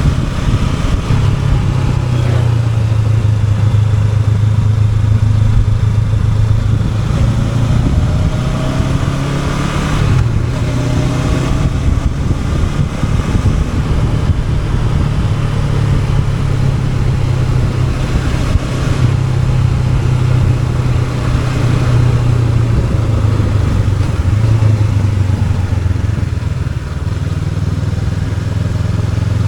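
Honda NX500's parallel-twin engine running steadily under way, with a few brief rises and falls in pitch a little before the middle, over a constant rush of wind and road noise.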